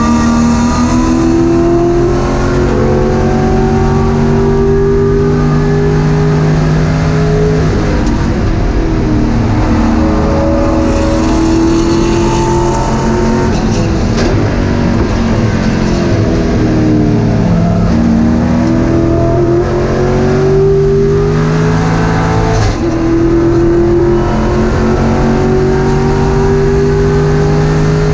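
Race car engine at racing speed, heard from inside the stripped, roll-caged cockpit: the revs climb through the gears, drop at each shift and fall away under braking, with one sharp shift late on.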